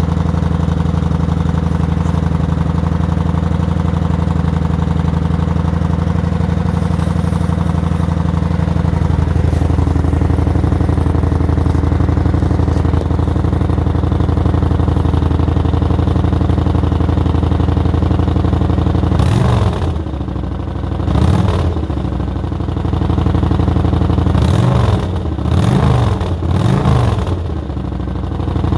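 Kawasaki Vulcan 900 Classic V-twin idling, warmed up, through its stock muffler with the baffle partly drilled out, giving a deeper rumble; in the last ten seconds the rider blips the throttle about five times, each rev rising and dropping quickly back to idle.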